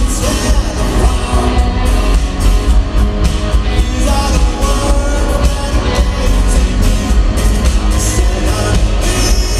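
Live rock band playing loudly at a stadium concert, with a lead vocal sung over guitars, bass and drums through the PA.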